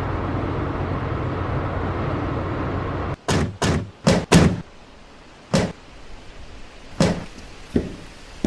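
A car engine running steadily, then shut off about three seconds in, followed by car doors slamming shut five times in quick succession and two softer thuds near the end.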